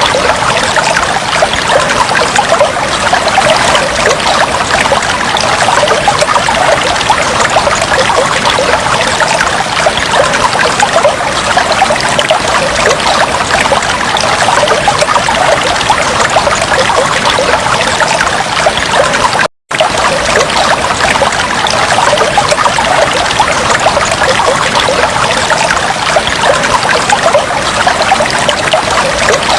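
Aquarium water bubbling and trickling steadily, a dense patter of small splashes and bubbles. It cuts out for an instant about two-thirds of the way through.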